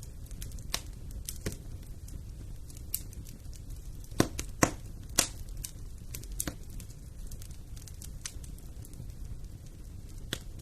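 Wood fire in a fireplace crackling over a low steady rumble, with scattered sharp pops, the loudest three coming close together about four to five seconds in.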